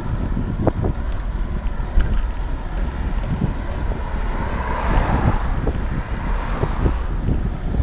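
Wind buffeting a bike-mounted action camera's microphone, a steady low rumble with irregular thumps, and a hiss that swells about halfway through and fades again.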